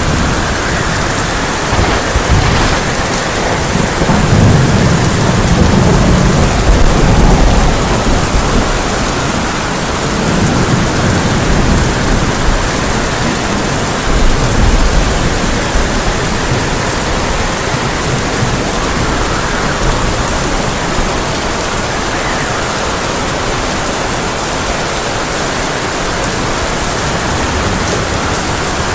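Heavy rain drumming on a tin roof, with rolling thunder: deep rumbles swell about four seconds in, again around ten seconds, and once more near fifteen seconds, over the steady rain.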